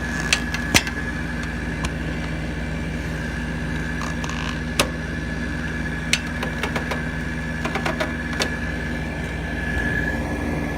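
Hampton Bay 12,000 BTU window air conditioner running with a steady hum from its compressor and fan and a constant high whine. Sharp clicks and knocks are scattered through it.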